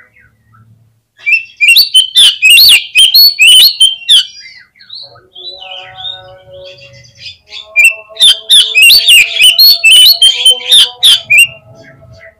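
Oriental magpie-robin (kacer) singing: two loud bursts of rapid, varied high chirps and whistled notes, each about three seconds long, with a quieter stretch between them.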